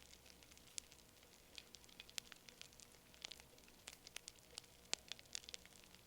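Wood fire crackling: irregular, scattered sharp pops and snaps over a low hiss, with one louder pop about five seconds in.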